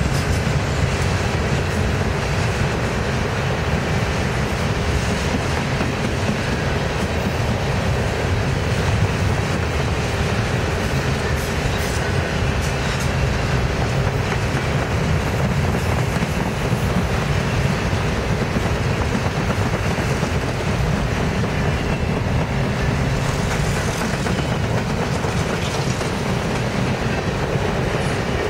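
Norfolk Southern freight train cars rolling past, a steady rumble with the clatter of wheels on rail joints.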